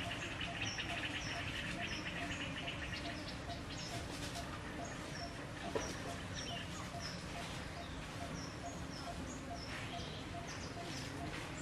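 A small bird chirping over and over, short high falling chirps about twice a second, over steady outdoor hiss. A buzzing like an insect's runs through the first few seconds.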